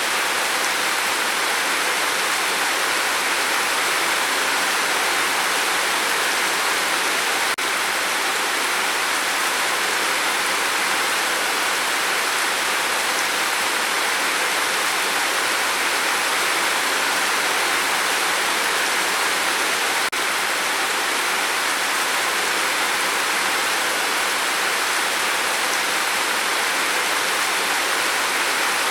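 Steady rain falling, an even hiss with no single drops standing out, broken only by two faint momentary dips about 7 and 20 seconds in.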